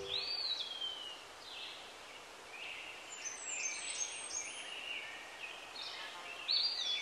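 Birds calling: a whistled note gliding downward near the start, then a scatter of short chirps and whistles, over a steady background hiss.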